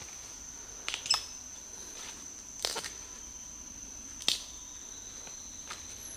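A steady, high-pitched insect drone, like a cricket, with a few short sharp clicks or crackles about a second in, near three seconds and just past four seconds.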